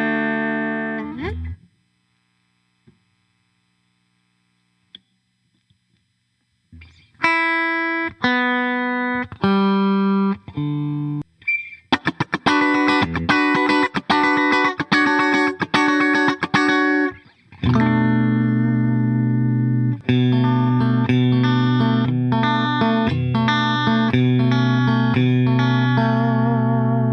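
Clifton Stratocaster-style electric guitar with Alnico pickups, played through an amp. A ringing chord dies away, a few seconds of silence follow, then single sustained notes, a quick run of picked notes, and for the last third thick held chords with some distortion.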